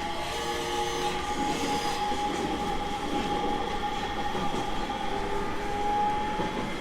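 JR East 701 series 1000-subseries electric multiple unit running, heard from inside the car: steady rolling noise with a high, steady whine held throughout.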